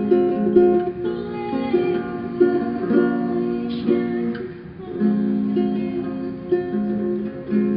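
Music on a plucked string instrument, a run of picked notes and chords with a short dip a little past halfway.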